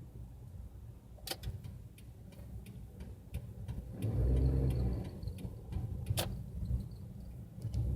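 Car driving, heard from inside the cabin: a steady low road and engine rumble that swells louder for about a second near the middle, with a few sharp clicks scattered through it.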